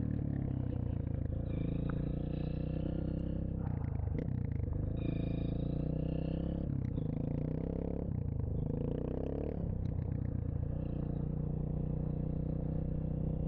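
Dirt bike engine running steadily, its pitch shifting up and down several times as the throttle changes.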